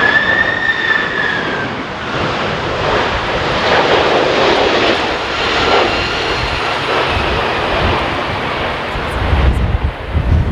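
Boeing 767 jetliner's engines running with a steady jet rush. A whine bends up and then down in the first two seconds. Low wind buffeting on the microphone comes in near the end.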